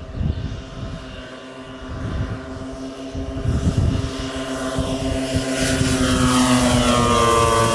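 Giant-scale Transall C-160 model's twin propellers droning as it flies past, growing louder, with their pitch dropping as it passes near the end. Gusting wind rumbles on the microphone.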